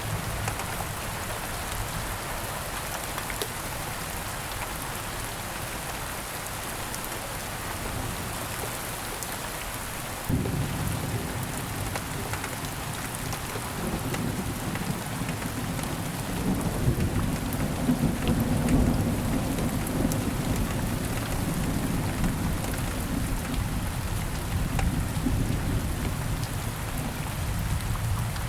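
Steady rain falling, with a constant patter of drops. About ten seconds in, a low rumble of thunder starts suddenly and rolls on, swelling past the middle and still rumbling at the end.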